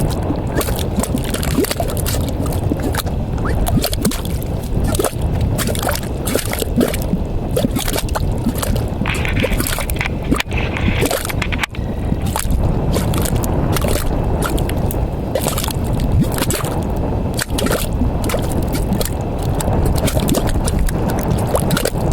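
Mud pots bubbling: carbon dioxide gas bursting up through thick mud in irregular gurgling plops, over a steady low rumble.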